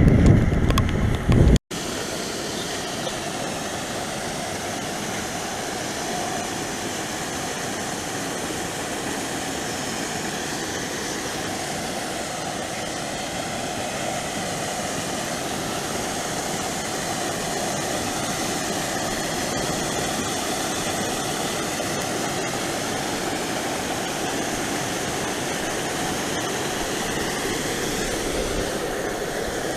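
Steady drone of a moving car's engine and road noise heard from inside the cabin, starting after a sudden break about two seconds in.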